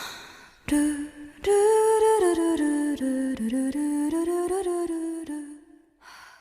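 Closing bars of a Japanese pop song: a wordless hummed or sung melody over accompaniment with light percussive strikes. It ends about five and a half seconds in, and a short faint tail follows.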